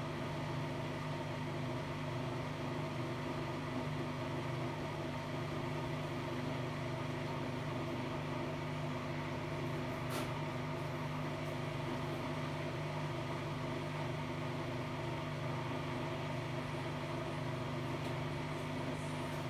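Hotpoint-Ariston Aqualtis washer-dryer with a brushless inverter motor running steadily, a constant machine hum that holds one pitch, with a single brief tick about ten seconds in.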